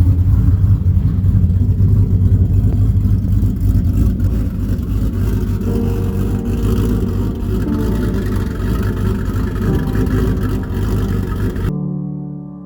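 A vehicle engine running with a steady low rumble, with faint music coming in about halfway through. Near the end the engine sound cuts off abruptly, leaving quieter keyboard music.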